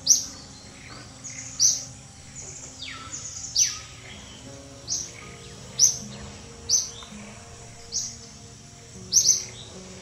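A bird chirping over and over, short sharp falling notes about once a second, over soft background music with long held notes.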